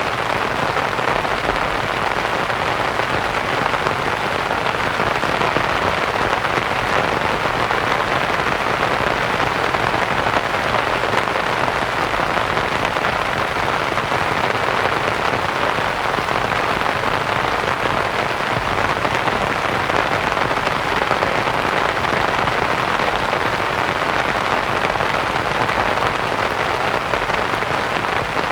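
Steady rain pattering on a canvas tent, mixed with a soft white-noise hiss; an even, continuous wash with no distinct drops or events standing out.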